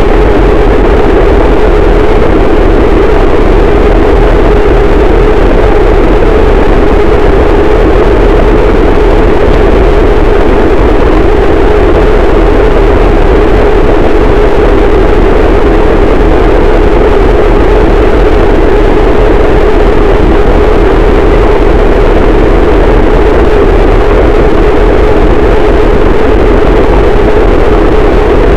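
Harsh noise wall: a very loud, static wall of dense distorted noise that never changes, heaviest in a low-middle band with a deep rumble underneath.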